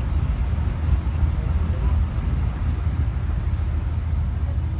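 Steady low rumble of a pleasure boat's engine, heard on board, with an even rushing of wind and water over it.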